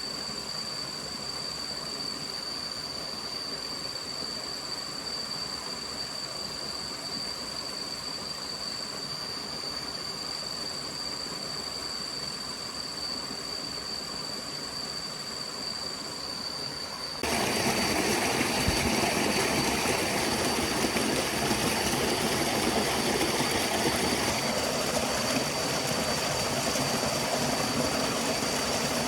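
Steady rushing noise of a forest stream, with a constant thin high tone above it. About two-thirds of the way through, the sound steps up abruptly and stays louder.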